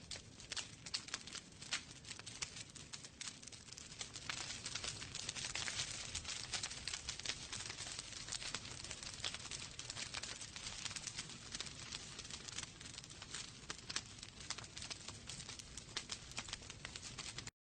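Wood fire in a fireplace crackling: many rapid snaps and pops from the burning logs over a soft hiss. It cuts off suddenly to silence near the end.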